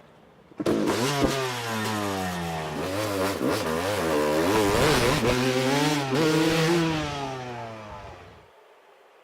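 Freestyle motocross bike's engine revving hard, its pitch climbing and dropping several times. It starts suddenly just over half a second in and fades away near the end.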